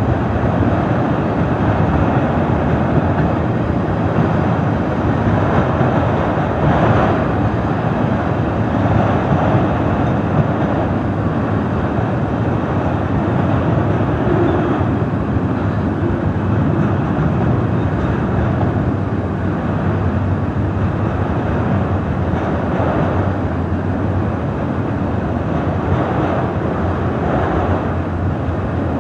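Freight train of autorack cars rolling past at a steady pace: continuous noise of steel wheels running on the rails, holding level with only small swells.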